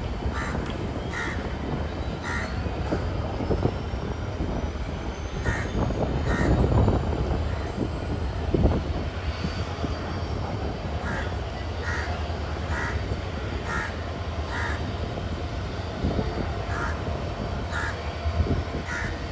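Last coaches of a departing Indian Railways express rolling past and away, a steady low rumble of wheels on rail with a louder swell a few seconds in that fades as the train clears the platform. Short harsh bird calls repeat every second or so over it.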